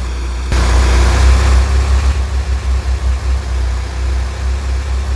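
Strong wind buffeting the microphone in an uneven low rumble, with a rushing gust about half a second in.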